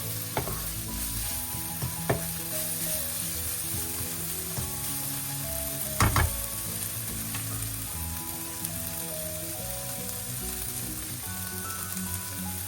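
Food sizzling as it fries in a pan, with a steady hiss and a few sharp knocks, the loudest about six seconds in.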